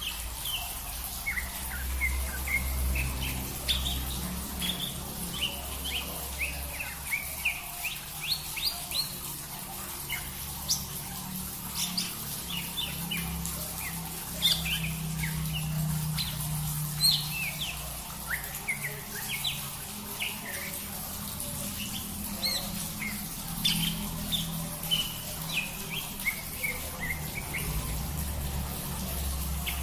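Small songbird chirping and twittering in many short, quick notes and brief trills, over a steady low hum.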